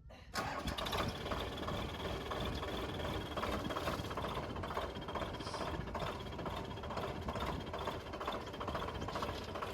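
Farm tractor's diesel engine running steadily with a fast pulsing beat while pulling a ridger to open furrows. The sound comes in abruptly just after the start.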